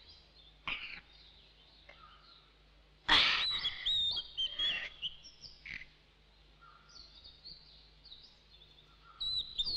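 Birds chirping and singing, with short high gliding notes. A louder run of chirps starts suddenly about three seconds in and lasts about two seconds, then faint chirps carry on.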